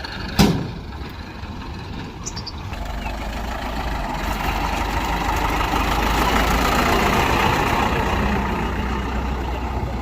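Heavy diesel machinery engine running and growing louder from about three seconds in, as if working under load, then easing slightly. A sharp metallic clank about half a second in is the loudest sound.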